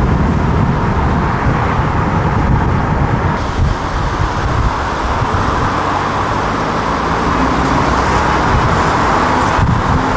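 A car engine running loudly at close range, its pitch shifting, over a steady rush of noise.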